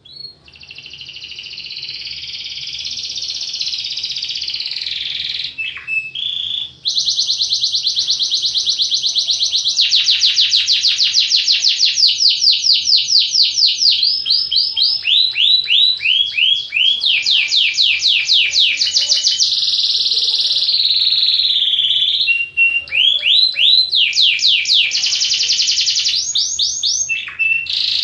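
Domestic canary singing one long unbroken song, moving between rolling passages, rapid trills of repeated notes and slower runs of sweeping notes; it stops abruptly near the end.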